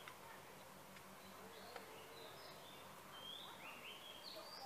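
Quiet outdoor ambience: birds calling in short whistled notes, several rising in pitch in the second half, over a faint steady hiss.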